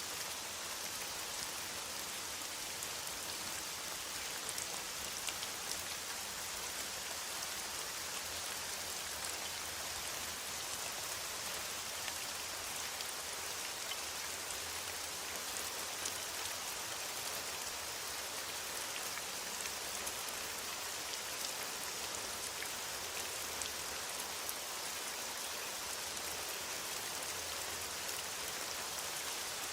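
Steady, soft rain falling in a forest, an even hiss with many small drops pattering.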